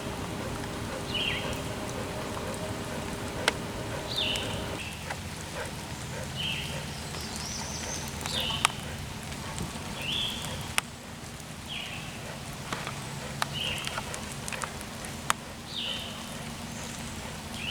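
A bird calling over and over, short high chirps that slide downward, one every second or two, with a few sharp ticks between them. A steady low hum runs under the first few seconds and then stops.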